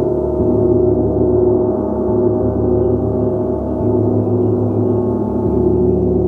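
Gong played in a continuous, sustained wash of many overlapping tones, with no single strike standing out; the lowest tones shift a few times.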